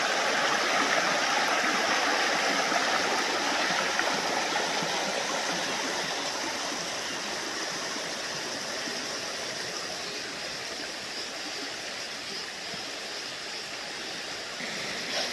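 A stream of running water: a steady rush that slowly grows fainter.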